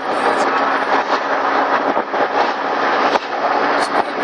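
A car's engine and exhaust running loud and steady.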